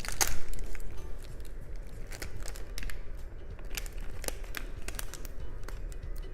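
Sealed gold inner wrapper of a chocolate bar being torn open and unfolded: irregular crinkling and crackling, loudest just at the start.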